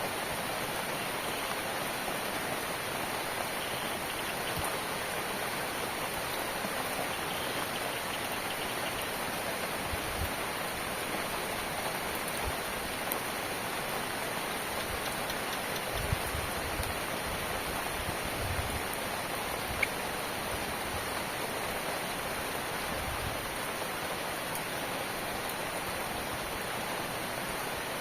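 Steady rain falling, an even hiss with no let-up. A few soft low thuds and single sharp drip ticks stand out in the middle stretch.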